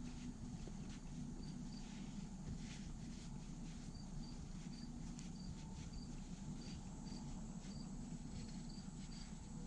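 Faint steady low hum under short, high chirps that repeat about every half second.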